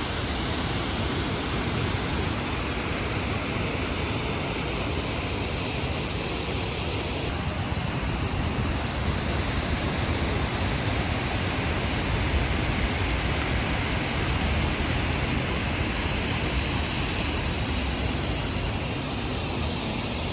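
Steady rushing of water pouring over the Rastoke waterfalls, an even, unbroken noise with no pauses.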